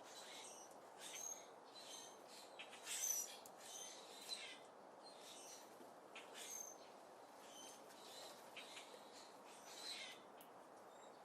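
Small birds at a feeder giving short, high chirps and calls again and again, the loudest about three seconds in, over a steady background hiss.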